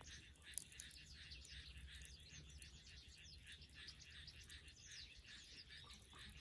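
Faint crackling of a bonfire burning dead wood, with one sharp pop about half a second in, over a steady chatter of small birds chirping.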